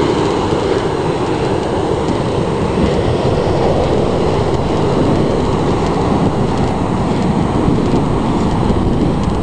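Ocean surf breaking on the beach, a loud, steady rushing noise, likely mixed with wind on the microphone.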